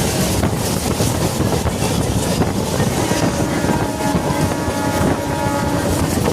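MEMU electric passenger train running at speed, a loud steady rumble with wind buffeting the microphone; a steady pitched tone sounds over it for about two seconds in the middle.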